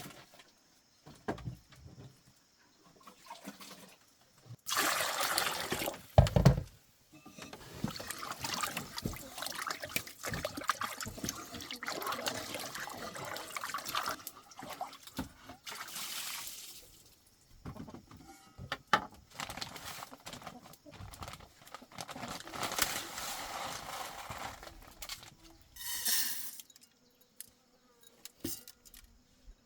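Water pouring and splashing in long stretches, with scattered knocks.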